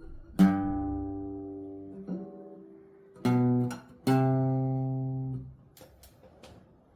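Acoustic steel-string guitar playing a slow melody in chords: a few struck chords ring out, the last one held for over a second before it is cut off about five and a half seconds in. Faint small clicks follow.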